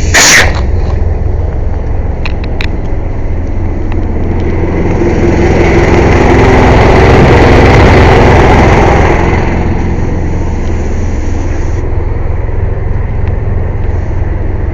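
Air compressor running loudly with a steady low drone. There is a sharp crack right at the start, and a louder rushing swell from about five to nine and a half seconds in.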